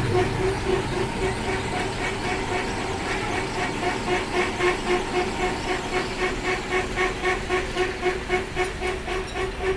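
Lathe running, a steady machine hum that pulses evenly about three times a second.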